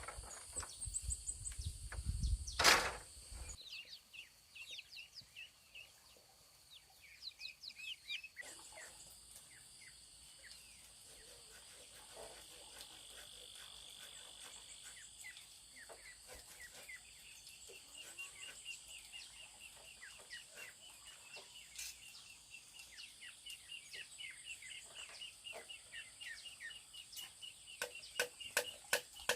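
Birds chirping, with quick repeated calls in the second half, over a steady high insect drone. A single loud knock sounds about three seconds in, and sharp clicks follow near the end.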